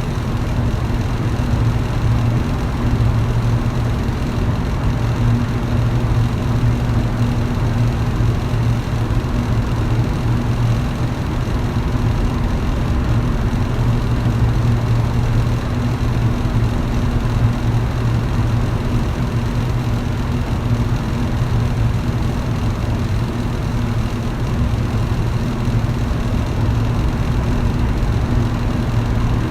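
Electric fan running at a steady speed: a constant motor hum under an even rush of air.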